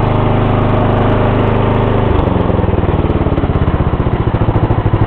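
A 1994 Lawn-Boy mower's 12.5 hp Briggs & Stratton single-cylinder engine running steadily. About two seconds in its speed drops, and the individual firing pulses become plainly audible as it runs on at a slow, lumpy idle.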